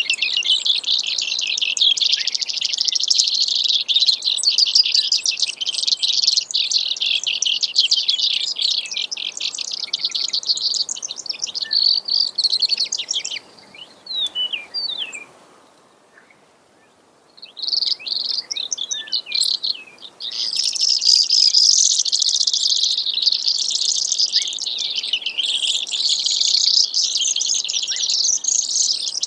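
Brewer's sparrow singing: long runs of rapid, high trills that shift in speed and pitch from phrase to phrase, breaking off for a few seconds about halfway through before the trilling starts up again.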